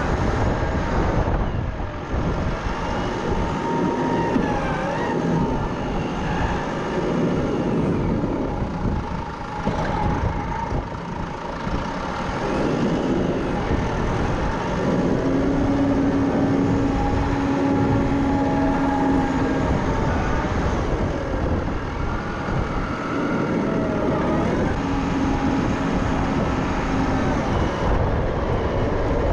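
Tractor engine running steadily while clearing snow, with a humming whine that comes and goes, strongest about halfway through and again near the end.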